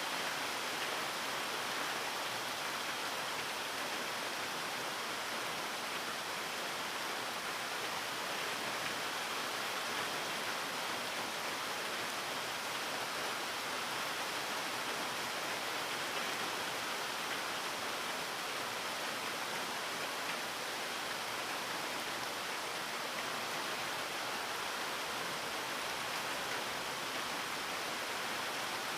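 Steady rain falling, an even, unbroken hiss without pauses or single loud drops.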